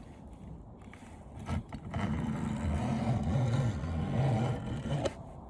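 A motor vehicle going by, swelling up about a second and a half in and fading near the end, with a few light clicks.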